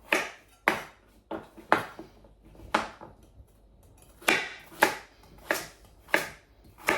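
Kitchen knife chopping carrots on a chopping board: about ten sharp chops at a steady pace, with a short pause partway through.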